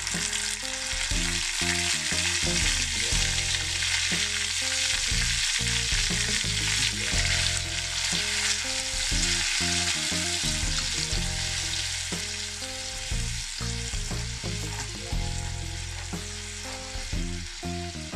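Mustard paste sizzling in hot mustard oil with panch phoron in a miniature clay pot, stirred with a small metal spoon. The frying is a steady hiss, a little stronger through the middle.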